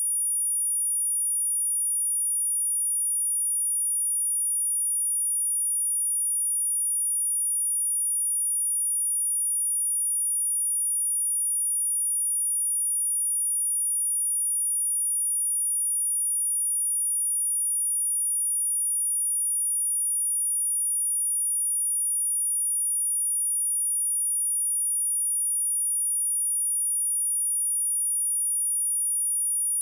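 A steady 9685 Hz sine test tone: one pure, very high, unchanging pitch, used for speaker testing and cleaning.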